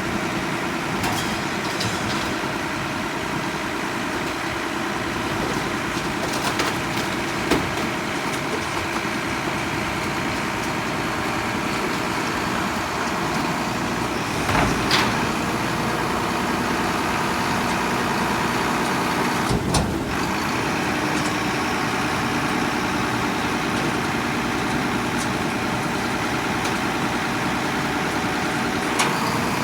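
Mack front-loader garbage truck with a Heil body, its diesel engine running steadily. A few sharp knocks and clunks come at intervals.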